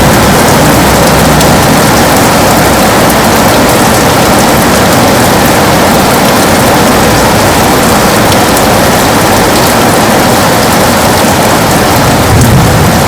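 Heavy rain falling steadily on a window, a dense, loud hiss with fine patter of drops. A low rumble swells in near the end.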